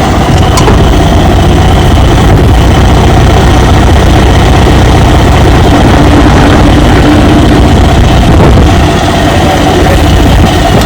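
A vehicle engine running steadily and loudly, with a deep low rumble and no clear change in speed.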